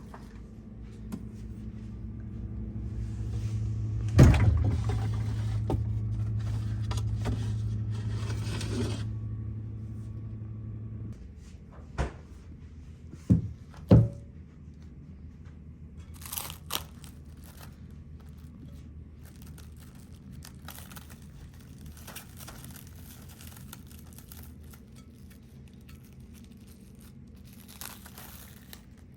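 Handling and rustling sounds over a steady low hum that cuts off suddenly about eleven seconds in. There is a loud knock about four seconds in and three sharp clicks a couple of seconds after the hum stops.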